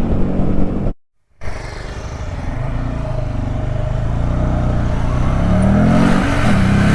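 Small 125 cc single-cylinder mini motorcycle engine idling, cut off abruptly about a second in. The engine sound then returns and revs up in a rising pitch as a mini bike accelerates.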